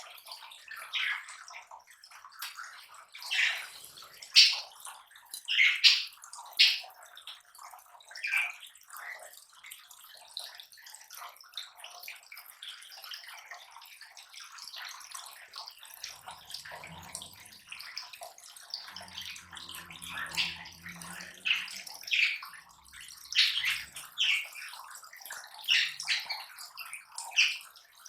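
Lovebirds giving many short, sharp chirps over a constant crackling rustle of palm leaves being chewed and shredded.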